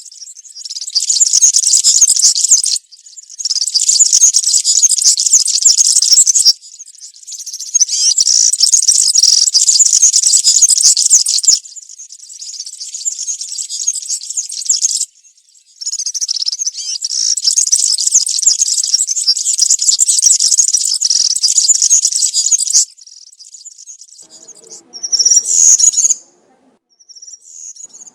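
European serin singing its wild 'campero' song: very high, fast, jingling twitter in long phrases of several seconds each, broken by short pauses, with two short bursts near the end.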